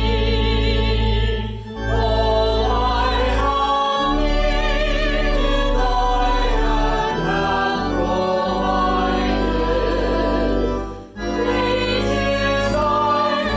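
Hymn sung by voices with vibrato over sustained low accompaniment notes, in phrases with a brief breath about two seconds in and again near the end.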